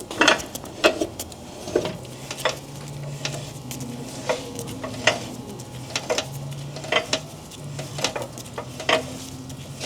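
Steel subframe bolts clinking and rattling as they are handled, in irregular sharp clinks about once a second, over a low steady hum that starts about two seconds in.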